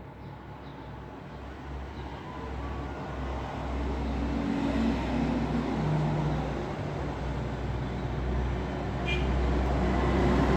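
Road traffic: motor vehicle engines and tyre noise as a steady low rumble, swelling as a vehicle draws near.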